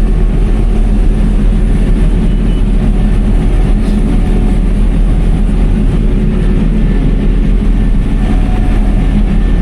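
Cotton stripper running steadily while harvesting: a loud, even low engine drone with a steady hum, unchanging throughout.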